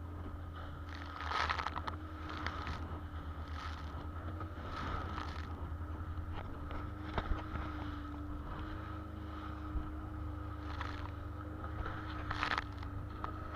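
A small boat's engine running steadily, with waves splashing against the hull again and again in rough, windy seas.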